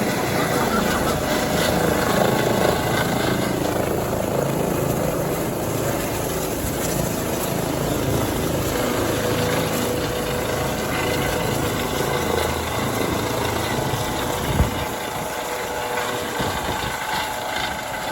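Airbus EC135 helicopter's twin turbine engines and rotors running on the ground, a steady whine over a rapid rotor beat. A single short thump about fourteen seconds in.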